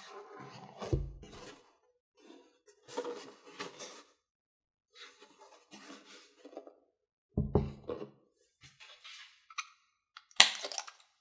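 Unboxing handling noise: packaging and small plastic parts rustling and clicking in irregular bursts, with low thumps of items set down on a table about a second in and about seven and a half seconds in, and a sharp, loud rustle or snap near the end.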